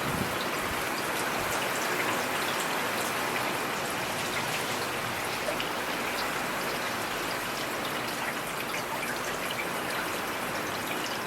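Steady rainfall, with a constant hiss and scattered individual drops ticking.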